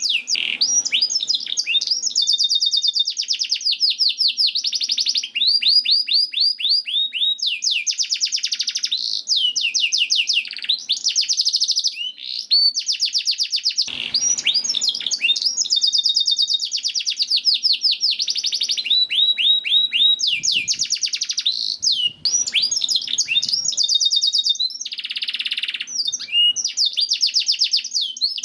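Canary singing a long, unbroken song of rapid trills: each phrase is a fast run of repeated high notes, and the phrase changes every second or two.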